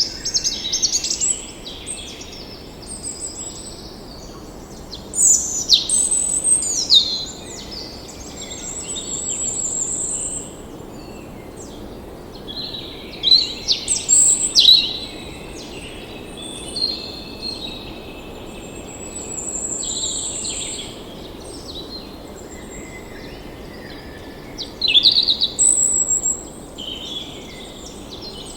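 Several songbirds singing and calling in bursts of quick chirps and sliding notes, with a high trill held for about two seconds twice, over a steady low background hiss of natural ambience.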